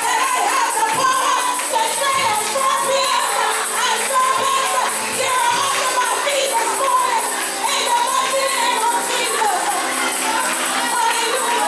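Gospel praise music in church: a tambourine shaking steadily with singing voices.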